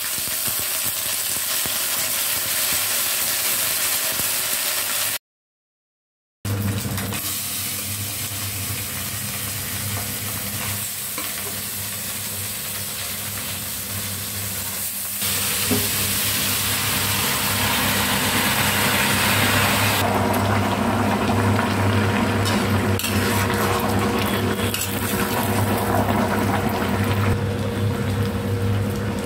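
Whole spices (dried red chillies, bay leaves and seeds) sizzling in hot oil in an iron kadai, broken by a brief cut to dead silence about five seconds in. From about halfway, cut vegetables are tipped into the pan and stirred, and the frying grows louder and stays so.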